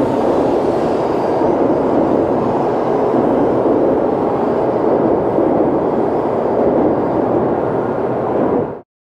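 Shinkansen bullet train noise at the platform: a steady, loud rushing rumble that cuts off suddenly near the end.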